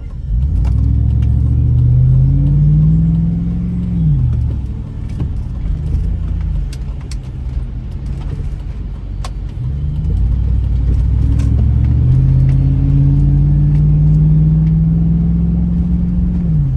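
Car engine accelerating, heard from inside the cabin. Its pitch climbs for about three seconds and drops sharply at a gear change. From about ten seconds in it climbs again for about six seconds and drops again near the end.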